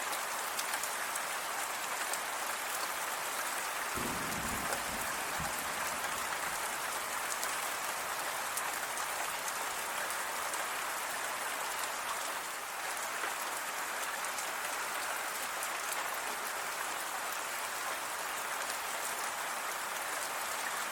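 Steady rain falling and pattering on a surface, a dense hiss of many drops with fine individual ticks. A brief low rumble comes in about four seconds in.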